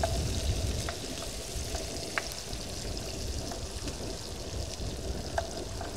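Sliced onions sizzling in a cast-iron Dutch oven on a propane camp stove as they are stirred with a spoon, with a few light clicks of the spoon against the pot. A low wind rumble runs underneath.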